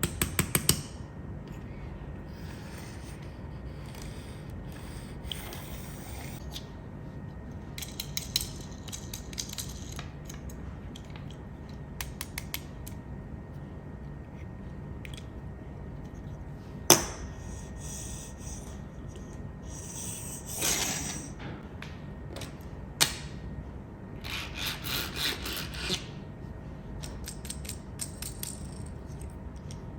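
Small handling noises over a steady low hum: a quick run of clicks at the start, scattered light ticks, one sharp knock about halfway, and short stretches of rubbing and scraping near the end.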